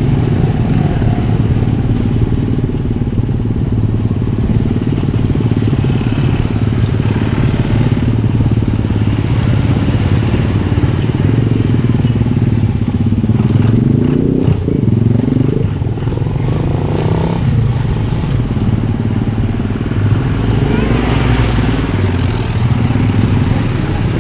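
Motorcycle engine running steadily while riding, with a brief rise and fall in pitch about fourteen to fifteen seconds in.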